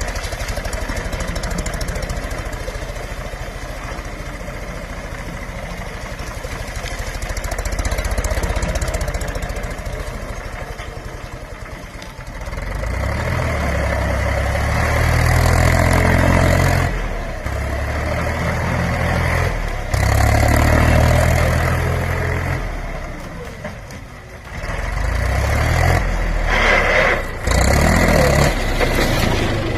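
Mahindra tractor's diesel engine idling steadily for about twelve seconds, then revved up hard several times, its note dipping and rising again between bursts.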